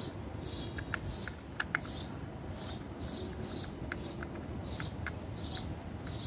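A small bird chirping in the background: short, high, falling chirps repeated about once a second. A few light clicks are scattered among them.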